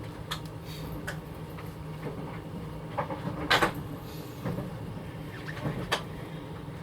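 Inside a train carriage: a steady low hum with scattered knocks and rattles, the loudest about three and a half seconds in.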